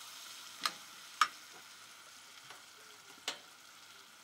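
Beef, bacon and onions sizzling in a pot on a gas burner while being stirred with a spoon. The spoon knocks sharply against the pot three times, the loudest about a second in.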